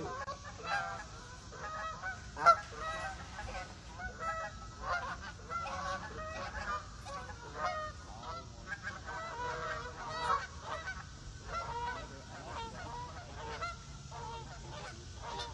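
A group of geese honking, many short calls one after another and overlapping.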